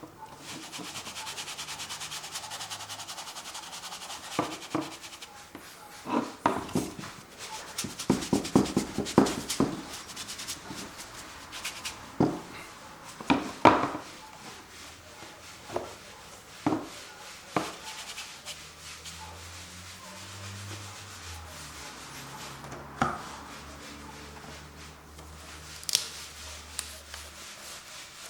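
A painting tool rubbing and scraping over a canvas: a continuous scratchy scrubbing at first, then a quick run of short strokes, then single strokes every second or two.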